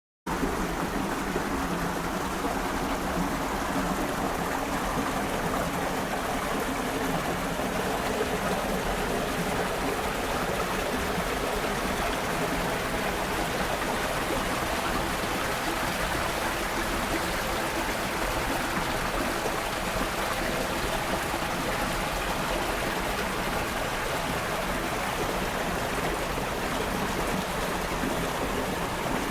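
Running water, heard as a steady, unbroken rush with no break or change in level.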